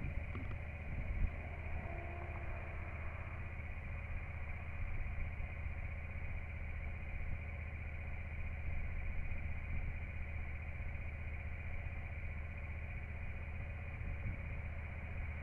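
Honda XL125V Varadero's 125 cc V-twin engine idling steadily in gear, slowly turning the rear wheel and the freshly oiled drive chain.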